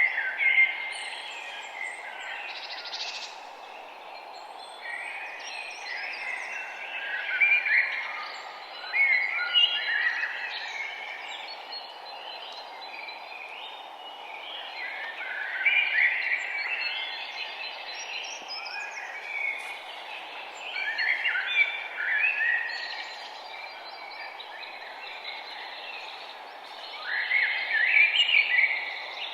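Songbirds singing: bursts of chirping, warbling phrases come every few seconds, the loudest about a quarter, a third, half, two thirds and nearly all the way through. Under them runs a steady background rush of outdoor noise.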